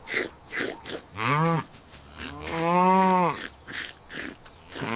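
Cow mooing: a short call about a second in, then one long, steady moo, with another starting right at the end and short clicks in between.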